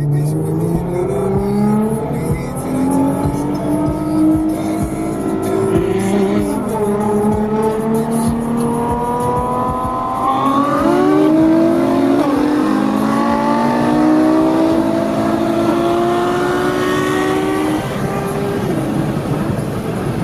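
High-performance car engines accelerating hard at speed, heard from inside one of the cars. The pitch climbs steadily through each gear and drops at every shift, several times over.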